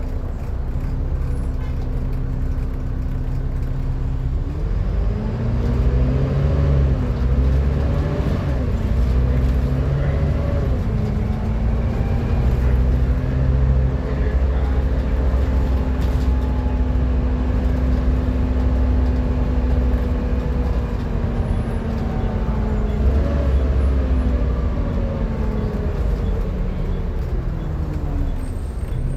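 Volvo B7TL double-decker bus running, with the loud hoover-like whine riding over its engine rumble. The whine rises and falls several times about five seconds in, holds one steady pitch through the middle, then rises and falls again near the end.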